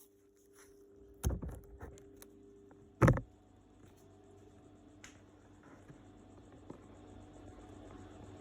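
Two sharp knocks about two seconds apart, the second the loudest, with a few lighter clicks and taps between and after, over a steady low hum, from hands-on panel work on a car body.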